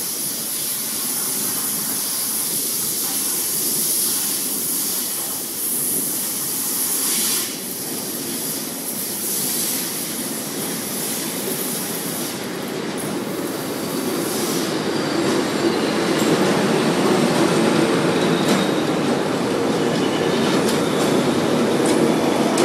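ChS8 twin-section electric locomotive running slowly into a station with its train, wheels rolling on the rails. A strong high hiss fills the first several seconds. The rumble grows louder in the second half as the locomotive passes close by.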